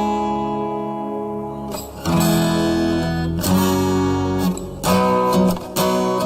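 Instrumental backing track of a children's cartoon theme song, without vocals: held chords and plucked or strummed notes, the phrases restarting about every second and a half.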